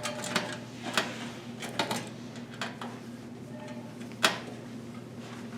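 A handful of sharp metal clicks and clinks as motherboard screws and a Phillips screwdriver are worked against the PC case, the loudest about four seconds in, over a steady low hum.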